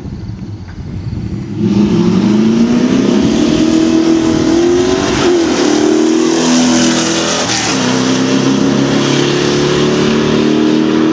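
Two V8 cars launch and accelerate hard at full throttle, a stock supercharged LT4 Corvette and an LT1 Camaro on a header-back true-dual exhaust. Their engine notes climb in pitch, with gear shifts breaking the climb twice. The sound comes in suddenly about two seconds in and is loudest as the cars pass, about six seconds in.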